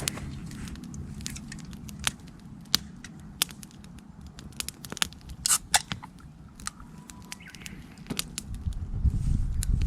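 Wood campfire crackling, with irregular sharp pops and a brief cluster of louder snaps about halfway through. A low rumbling noise rises near the end.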